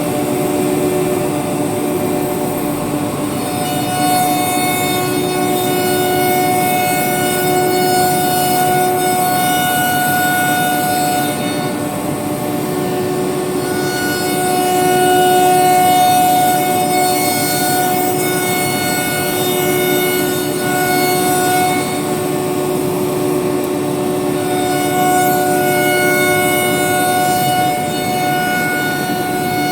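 Woodworking CNC router's spindle running at high speed while cutting a wooden door, a steady high-pitched whine with a hiss of cutting noise; the whine fades and returns every few seconds as the cutter moves through the wood.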